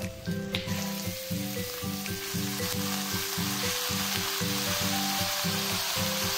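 Onions and garlic sizzling in oil in a frying pan. The sizzle grows louder and steadier about half a second in, as raw chicken pieces go into the pan. Background music with a steady beat plays throughout.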